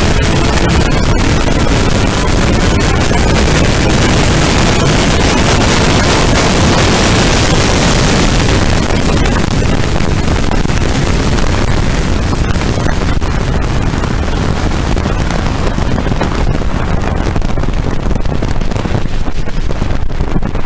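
Fuel-injected Holden 202 straight-six of a slingshot dragster running hard at full throttle down the strip. About eight seconds in the engine note drops away and wind buffeting the microphone takes over as the car coasts.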